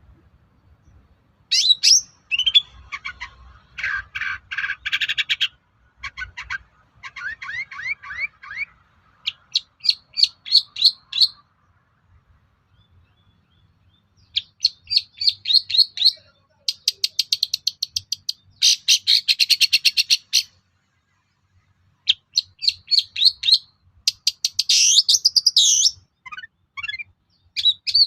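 Long-tailed shrike (cendet) singing a loud, varied song in bursts of rapid chattering trills and scratchy note runs, each one to two seconds long, with short pauses between them.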